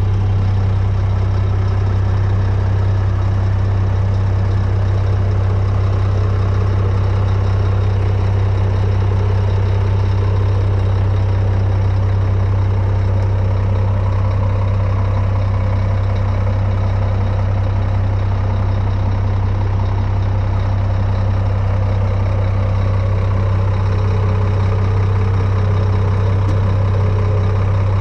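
Scania G420's 12-litre inline-six diesel engine idling steadily, a deep even hum.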